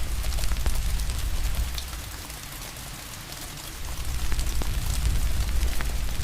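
Steady rain hiss over a low rumble, with scattered sharp pops of a crackling fire. The rumble fades about two seconds in and returns about two seconds later.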